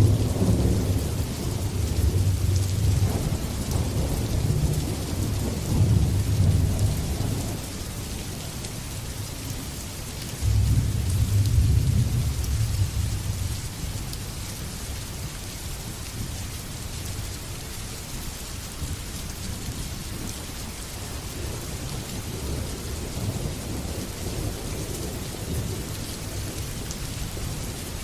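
Steady heavy rain with rolls of thunder: a low rumble at the start that dies away, then a second roll breaking in suddenly about ten seconds in and fading a few seconds later.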